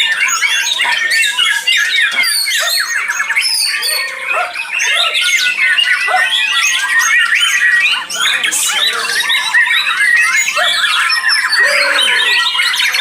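Dense chorus of many caged white-rumped shamas (murai batu) singing at once: overlapping rapid whistles, chirps and trills with no pause.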